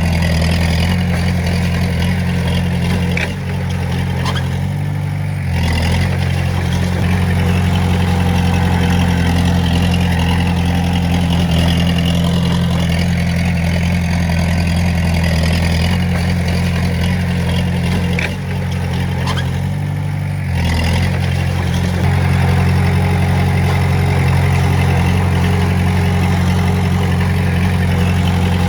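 Komatsu D20A bulldozer's diesel engine running steadily under load, its note dipping briefly twice, about four and nineteen seconds in, as the machine eases off and picks up again.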